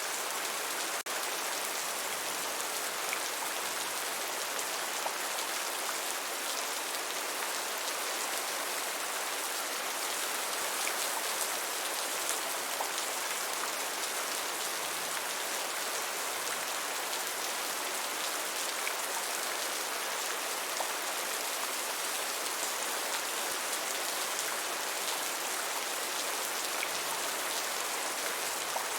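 Steady rain falling: an even hiss with scattered drop ticks, and a brief dip in level about a second in.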